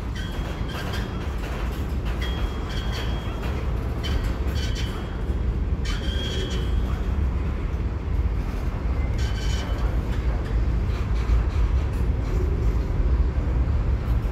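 Freight cars of a CSX mixed freight train rolling slowly past: a steady low rumble of wheels on rail, with scattered clicks and several short, high-pitched wheel squeals.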